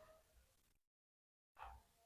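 Near silence, with a short stretch of complete digital silence in the middle.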